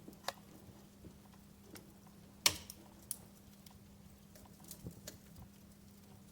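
Wood fire crackling in a fireplace: scattered sharp pops and snaps over a low hiss, the loudest about two and a half seconds in, with a faint steady hum underneath.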